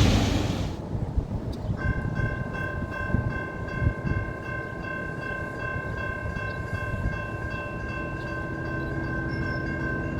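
A train passing close by with a steady low rumble and scattered knocks. Its horn blast dies away in the first second, and from about two seconds in a steady high-pitched whine holds throughout.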